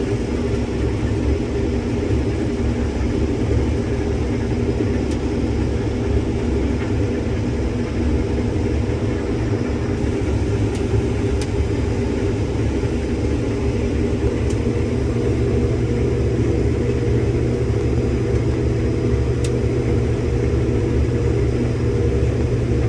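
Case IH combine running steadily at working speed while harvesting soybeans, heard from inside the cab as an even, unbroken drone.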